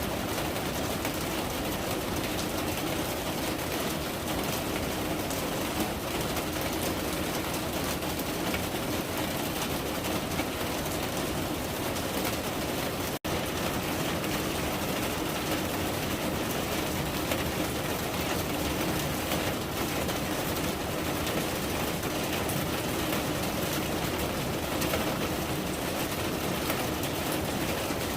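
Steady rain: an even hiss of falling rain that breaks off for an instant about halfway through.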